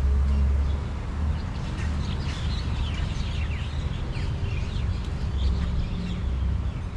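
Small birds chirping busily in many short, falling calls over a steady low rumble.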